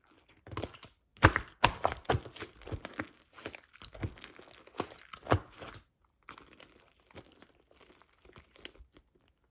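Clear slime mixed with fluffy slime being squished and folded by hand, giving a run of sharp sticky clicks and pops for about five seconds, then a stretch of softer, sparser clicks.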